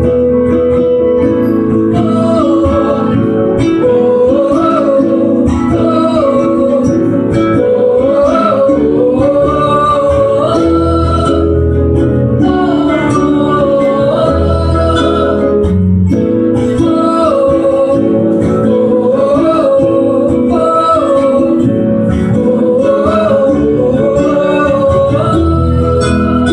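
Live pop-rock band music with guitars and a melody line that repeats the same rising and falling figure over and over, with no sung words.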